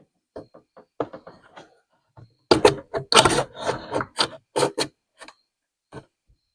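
A run of irregular knocks, clicks and short scrapes from hard objects being handled and set down, sparse at first and busiest from about two and a half to five seconds in.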